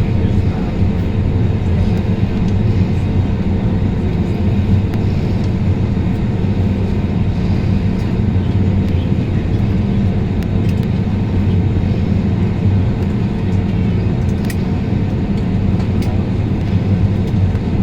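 Airliner cabin noise: a steady low rumble of the jet engines and rushing air heard from inside the cabin, with a faint steady hum.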